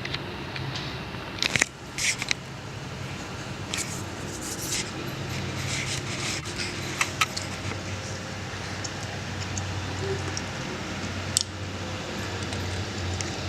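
Construction-site and street background: a steady low engine hum with scattered sharp metallic clicks and clanks.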